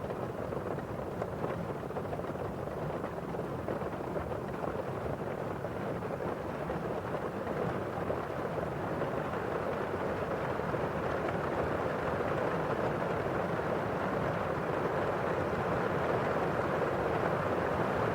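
Steady rain: drops on window glass over the rush of rainfall outside, a constant dense wash that grows slightly louder toward the end.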